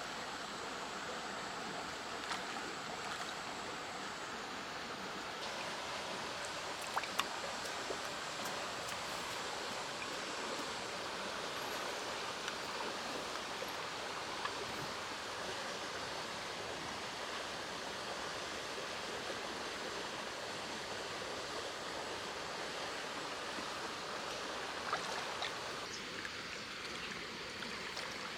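Steady heavy rain, a constant hiss, with a few sharp taps now and then.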